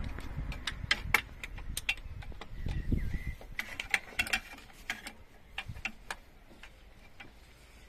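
Irregular sharp metallic clicks and taps of a wrench working the injector fuel-line nuts on a KAMAZ diesel engine, thinning out after about five seconds.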